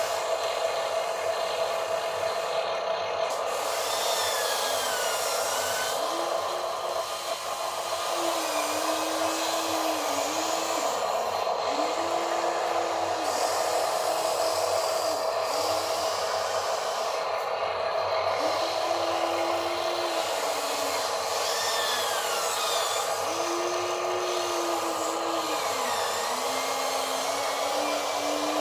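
Electric motors and gearboxes of radio-controlled toy construction trucks whining steadily. A lower motor tone keeps stepping up and down in pitch as the trucks speed up, slow and stop.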